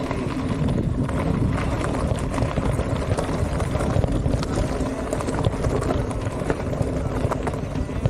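Mountain bike rolling over a rough forest trail: steady tyre noise with scattered knocks and rattles from the bike over uneven ground.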